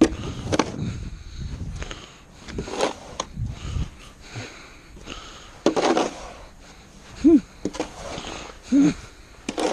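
Snow shovel scraping and scooping light, fluffy snow in separate strokes, with a couple of short grunts from the shoveller.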